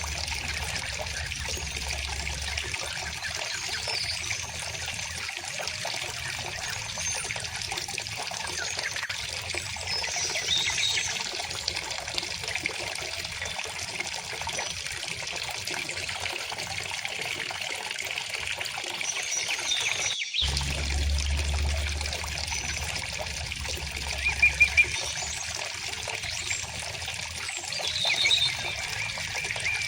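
River water flowing and trickling steadily, with short bird chirps scattered over it, the loudest near the end. The sound cuts out for an instant about twenty seconds in.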